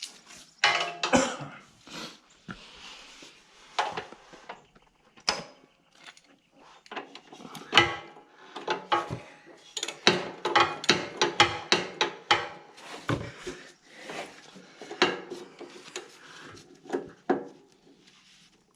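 Locking pliers (vice grips) clinking and knocking against the mower's metal oil drain plug as it is tightened: a long run of irregular sharp metallic clicks.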